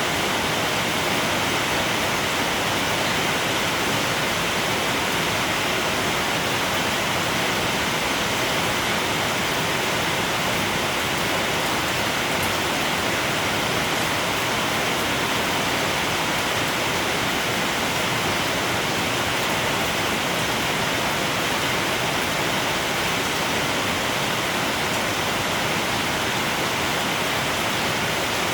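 Steady, even rain with no let-up or change.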